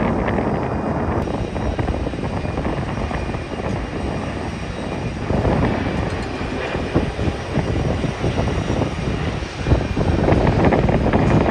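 Jet airliner engines rumbling as a plane comes in to land, with wind buffeting the microphone; the engine noise builds again near the end.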